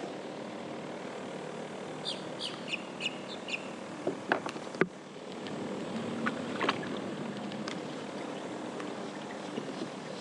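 A few sharp clicks and knocks as a kayak's trolling motor is pulled up out of the water by its lift handle, over a steady low hum. A bird chirps several times about two seconds in.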